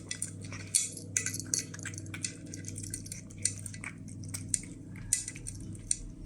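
A cat eating from a dish: irregular small clicks and clinks of chewing and its mouth against the dish, over a steady low hum.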